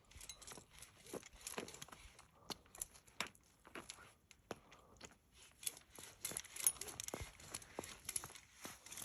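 Faint, scattered clicks and rustling of climbing rope and metal gear being handled.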